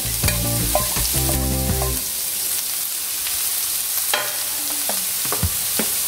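Chopped onions, garlic, ginger, green chilli and curry leaves sizzling steadily in hot coconut oil in a non-stick frying pan, just after the onions are added. A steel spoon scrapes and clicks against the plate and pan a few times.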